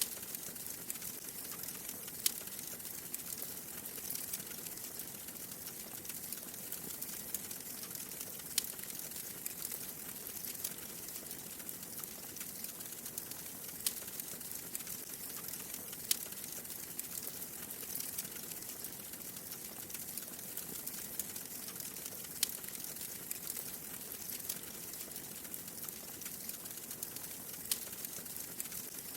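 Wood fire crackling in a fireplace: a steady hiss full of small ticks, with a sharp pop every few seconds.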